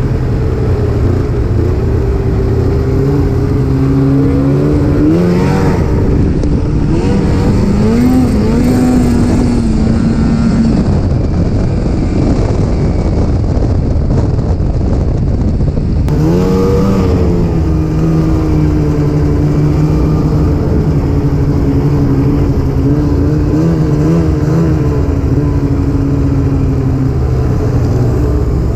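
Snowmobile engine running under way over a constant rush of noise. Its pitch rises about five seconds in, drops away about eleven seconds in, and revs up sharply again about sixteen seconds in.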